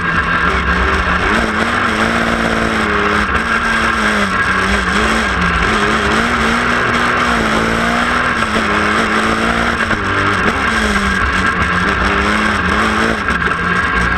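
Race car engine revving hard and continuously, its pitch climbing and dropping every second or two as the driver goes on and off the throttle and shifts gears.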